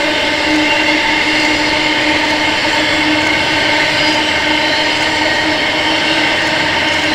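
Freight train wagons rolling past on the rails, their wheels giving a steady whine of several held tones over the rumble.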